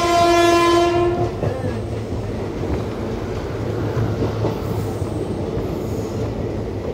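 A train horn sounding one long, steady note that cuts off about a second in, followed by the steady running rumble of a passenger train pulling slowly out of a station, heard from the coach door.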